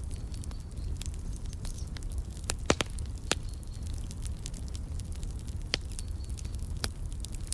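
Wood fire crackling in a fireplace: scattered sharp pops and snaps over a steady low rumble, with the loudest pops a little under three seconds in, again at about three and a half seconds, and near six seconds.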